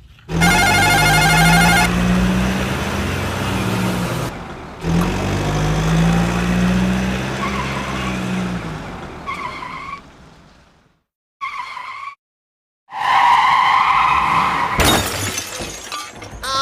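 Vehicle engine sound effects, two passes of a steady engine hum each about four seconds long, followed by a few short pitched effects separated by silences.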